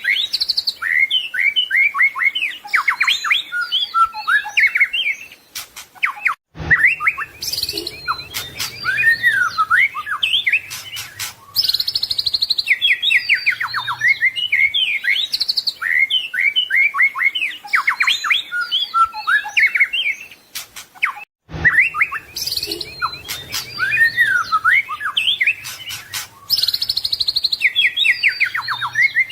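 White-rumped shama (murai batu) singing a fast, varied song of whistles, sweeping notes and rapid trills, full of mimicked phrases. The song cuts off briefly twice.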